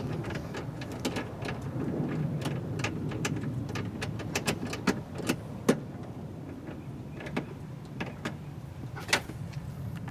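Irregular small clicks and light knocks of hand tools working on the window-glass clamp screws inside a car door, over a steady low rumble.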